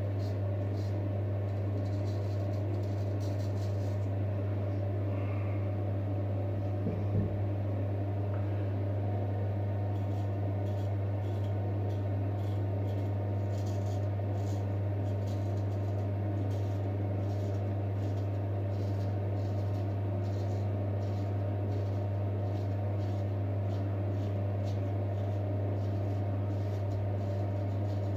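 A steady low mechanical hum, with faint short scraping strokes of a straight razor cutting through stubble over it and a soft thump about seven seconds in.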